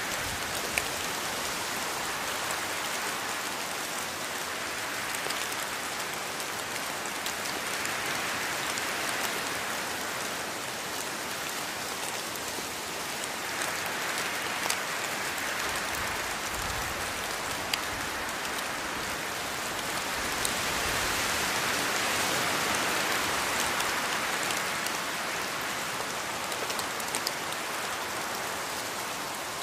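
Steady rain falling in a forest, swelling and easing in strength every several seconds, with occasional single drops heard as sharp ticks.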